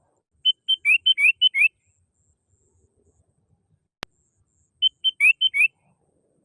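Sooty-headed bulbul (kutilang) singing two lively phrases of quick chirped notes, each about a second long: a lure call. A single sharp click falls between the two phrases.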